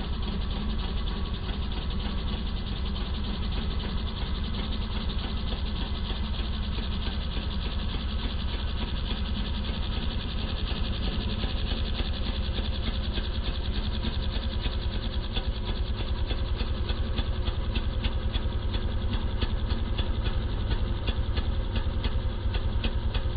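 Peugeot 102 moped's single-cylinder two-stroke engine running steadily under way, an even buzz of rapid firing pulses that holds the same pitch and level throughout.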